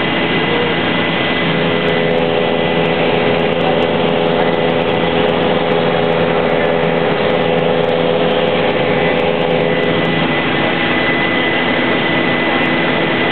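Helicopter in flight, heard from the passenger cabin: a loud, steady mix of turbine whine and rotor noise with a constant high tone, unchanging throughout.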